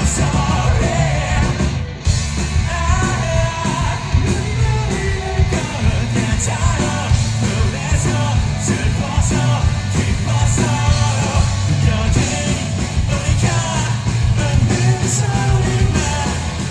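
Loud rock music with a singer's voice, at times yelled, over heavy bass and drums.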